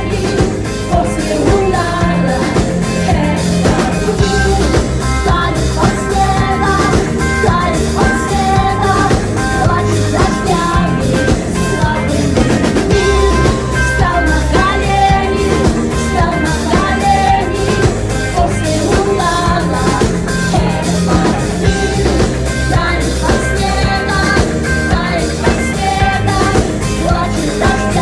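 Live rock band music, with a drum kit keeping a steady beat under a dense instrumental arrangement.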